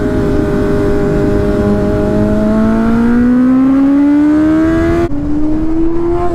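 Kawasaki Z900 inline-four engine pulling hard under acceleration, its pitch rising steadily, then dropping as it shifts up about five seconds in and again near the end.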